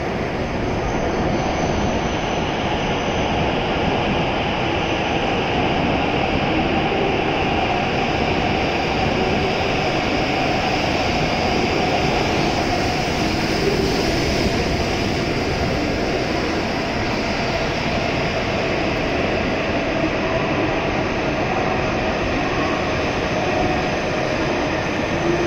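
E7-series shinkansen pulling into the platform and running past, slowing to stop: a loud, steady rush of wheel, motor and air noise.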